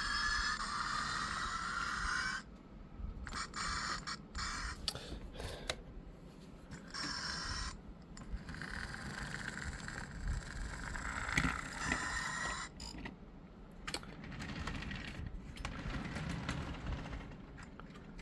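Athearn model train running on the layout track: motor whine rising in pitch at first, then scraping wheel-and-rail noise that cuts out and comes back several times as the train stops and starts.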